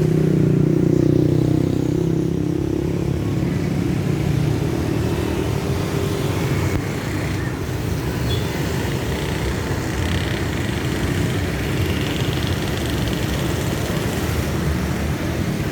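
Road traffic: a motor vehicle engine, loudest in the first couple of seconds as it passes, then a steady low rumble of traffic.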